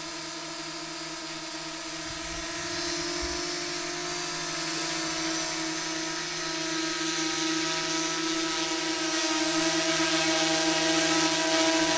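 Small quadcopter drone in flight, its propellers giving a steady multi-toned whine that grows gradually louder.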